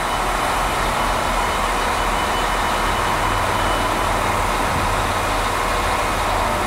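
Steady running noise of a diesel train idling at the platform, an even rumble and hiss that holds at one level throughout.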